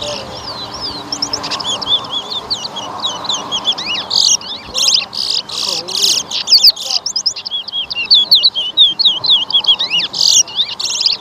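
Caged towa-towa (seed finch) song birds singing continuously in rapid, chirping and warbling phrases, as in a song competition.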